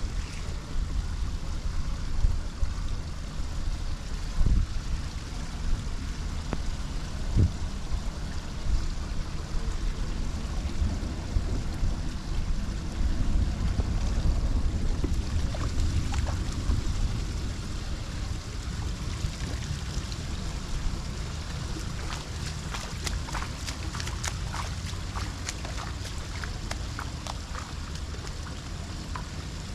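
Floodwater flowing and trickling into a storm drain, with a low rumble of wind on the microphone that eases in the second half. A run of small clicks and splashes comes near the end.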